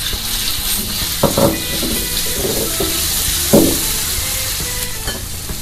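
Ground spice paste of chillies, shallots and garlic sizzling in hot oil in a wok as it is sautéed until fragrant, stirred with a wooden spatula. There are a couple of louder scraping strokes, about a second in and again past three and a half seconds.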